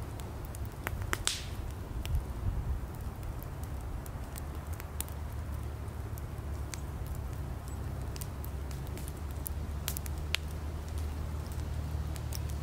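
Campfire of firewood burning, crackling with scattered sharp pops over a steady low rumble.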